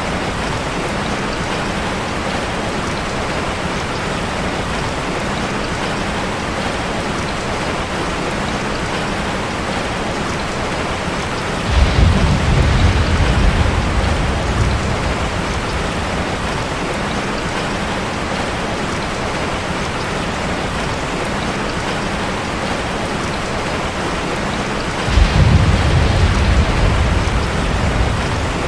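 Steady rain drumming on a metal roof, with two low rumbles of thunder, one a little before halfway and one near the end, each swelling suddenly and fading over a few seconds.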